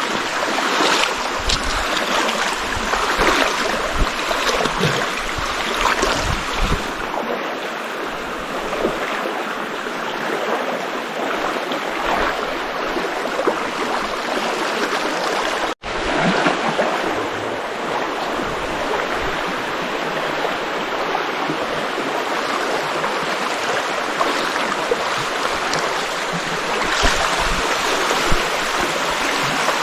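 Stream water rushing steadily, with a split-second dropout to silence about halfway through.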